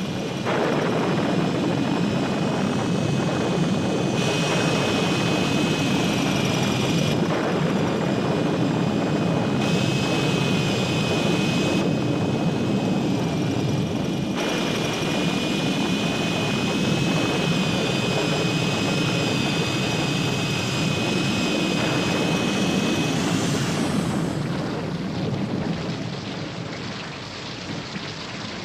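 Sound effect of a vehicle engine running with a loud steady rumble and a high whine above it. The whine rises and stops about four seconds before the end, and a quieter, noisy sound like rain and a storm takes over.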